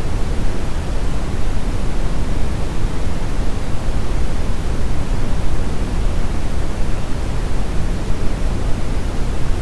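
Steady brown noise: a deep, even rumbling hiss weighted to the low end, unchanging throughout.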